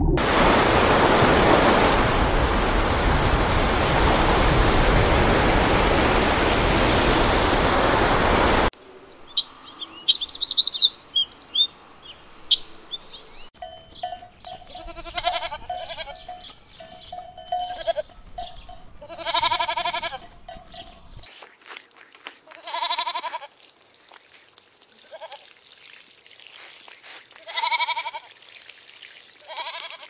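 Steady rushing underwater noise for the first nine seconds or so, cutting off abruptly. Then goats bleating again and again, the loudest bleat about halfway through, with some bird chirps just after the change.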